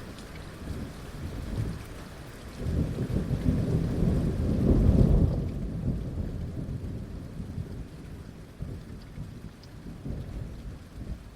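Heavy rain falling, with a low roll of thunder that builds a couple of seconds in, is loudest around the middle, and rumbles away over the following seconds.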